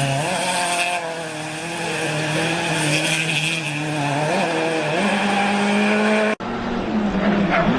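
Rally car engine running hard at high, fairly steady revs, stepping up in pitch about five seconds in. It cuts off abruptly after about six seconds and is followed by another rally car's engine.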